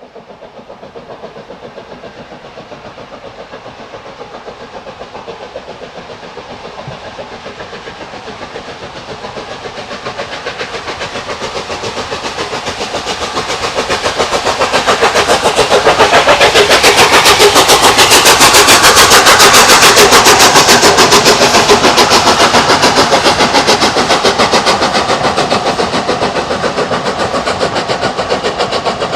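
Steam locomotive working up a steep gradient, its rapid, even exhaust beats growing louder as it approaches. It is loudest about two-thirds of the way through as it passes, then eases slightly as it draws away.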